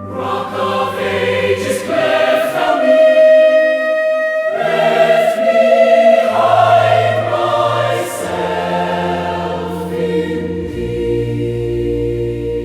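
Choir singing slow, sustained hymn chords with no clear words, over a low bass line.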